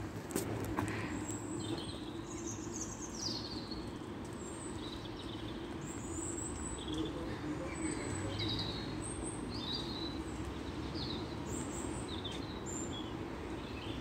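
Birds chirping in short, high calls every second or so, over a steady low hum of background noise.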